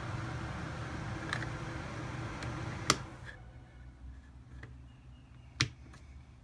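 Coleman rooftop RV air conditioner running with a steady rush of air. A sharp click comes about three seconds in, and the air noise cuts off just after it. Another sharp click follows near the end.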